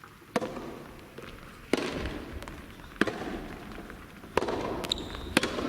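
Soft tennis rally: a rubber soft tennis ball struck back and forth by rackets, five sharp pops about a second and a half apart, each with a short echo.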